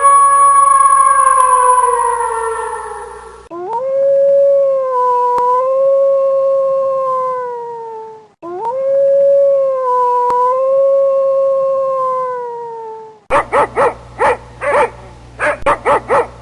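Canine howling: three long howls, the first sliding down in pitch and the next two held level with a rise at the start and a fall at the end. About three-quarters of the way through, a quick run of short yips and barks follows.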